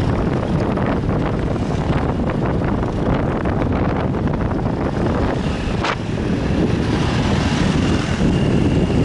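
Wind buffeting the microphone on a moving motorbike, with engine and road noise underneath, and a brief sharp click about six seconds in.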